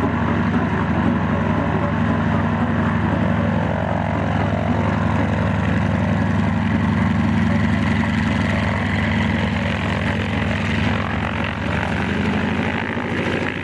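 Piston-engined propeller aircraft running close by with a steady, unchanging engine note.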